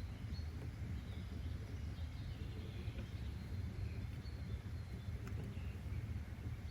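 Nature ambience: a steady low rumble with faint, scattered bird chirps.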